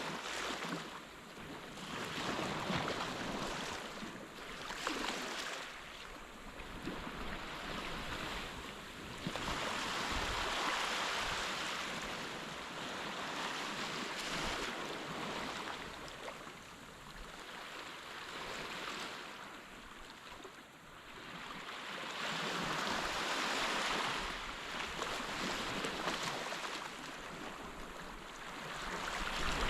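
Surf washing onto a sandy beach: a steady rush of water that swells and fades every several seconds as waves come in.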